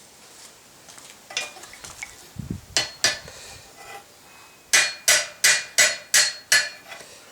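Light hammer striking hot 12 mm rebar on an anvil while bending a flattened foot of a brush handle: a few scattered taps, then a run of six quick, even blows about three a second, each ringing briefly.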